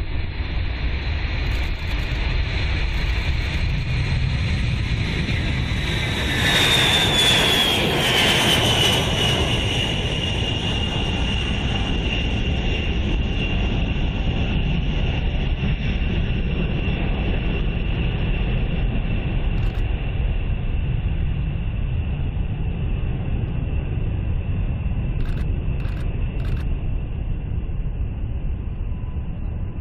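Jet aircraft engines running loud, with a high turbine whine that drops in pitch as the aircraft passes, about a quarter of the way in, over a steady low rumble.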